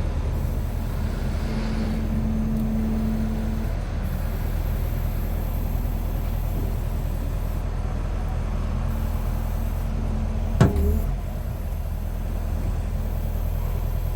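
John Deere 50P compact excavator's diesel engine running steadily while the hydraulics work the arm, a humming tone coming in twice. About ten and a half seconds in, a single sharp metallic clank stands out above the engine.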